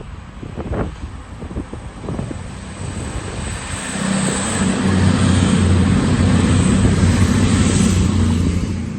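Diesel passenger train passing close while accelerating away. A steady engine note and a rushing hiss build up about four seconds in, hold, then start to fall away near the end.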